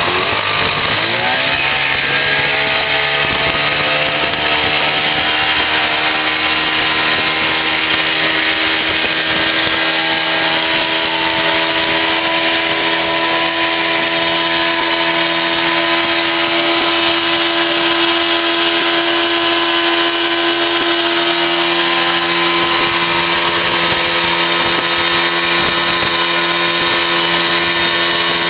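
Nissan 30 outboard motor opened up to full throttle, its pitch climbing over the first couple of seconds as it revs up, then running steady and loud at top speed.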